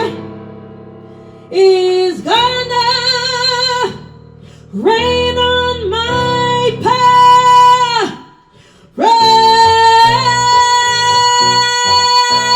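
A woman belting the closing phrases of a show tune over keyboard accompaniment: held notes with vibrato broken by short pauses, then from about nine seconds in one long sustained high note over repeated chords.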